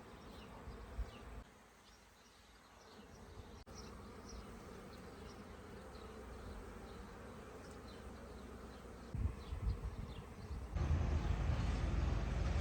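Honeybees buzzing steadily, with faint short high chirps over them. Near the end a louder rushing noise with low rumble comes in and covers the buzz.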